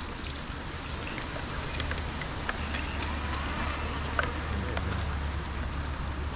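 Steady, even hiss of water, with scattered small drip-like ticks and a faint low hum that grows a little stronger about two seconds in.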